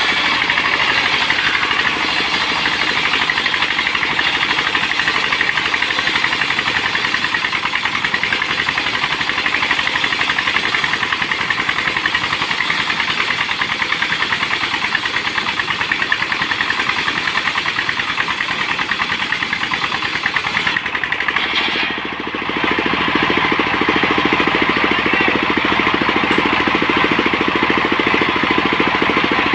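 Portable engine-driven sawmill running loud and steady while sawing timber. The sound briefly drops about 21 seconds in, then picks up again with a heavier, lower tone.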